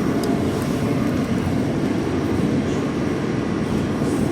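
Subway train running on the tracks, heard from inside the car as a steady low rumble.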